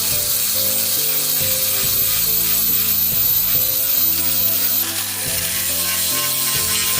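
A tool working wood, a loud steady rasping noise that starts suddenly, with background music underneath.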